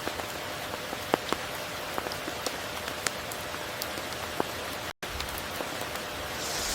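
Steady rain falling, with many individual drops ticking sharply against the even hiss. The sound drops out completely for a split second about three-quarters of the way through.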